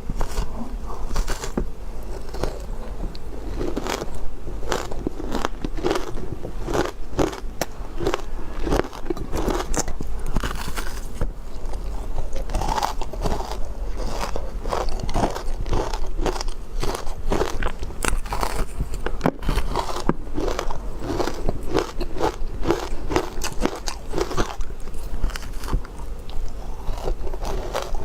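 Ice being bitten and chewed close to the microphone: continuous crunching and cracking, many sharp bites and crunches a second.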